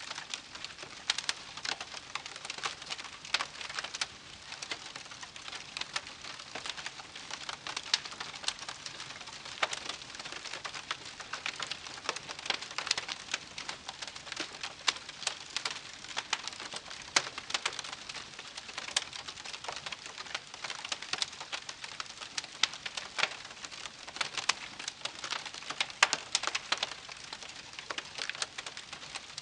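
Wood campfire crackling, with dense irregular pops and snaps over a soft hiss.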